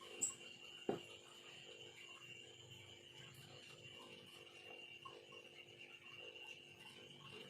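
Faint ticks and taps of a small carving blade working bamboo: a sharp click and a knock within the first second, then scattered light ticks over a steady high-pitched hum.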